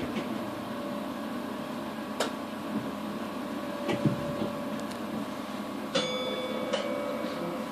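Steady hum of a train's equipment heard inside a carriage at low speed or standing, with occasional clicks and knocks. About six seconds in, a short steady tone comes in.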